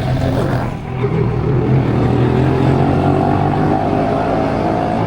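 Motorbike engine running under way, a steady drone over rushing road and air noise.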